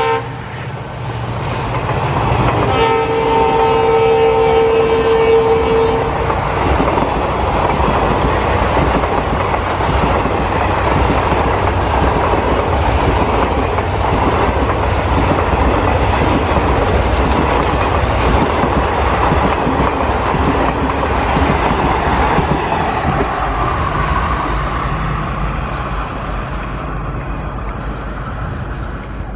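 Coaches of a diesel-hauled express passenger train rushing past at high speed: a steady heavy rumble and clatter of wheels on the rails. About three seconds in, a train horn sounds one steady note for about three seconds. The rumble eases a little near the end.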